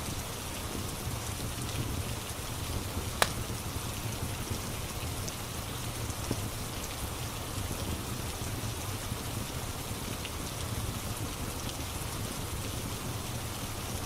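Steady rain ambience with a fire crackling under it; one sharp pop about three seconds in.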